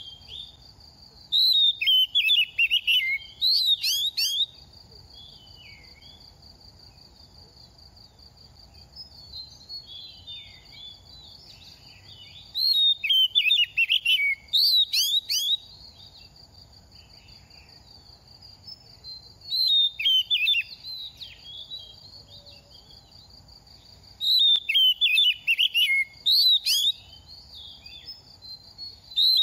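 Oriental magpie-robin singing in four bursts of rapid, varied whistled phrases with pauses of several seconds between them. A steady high whine runs behind the song.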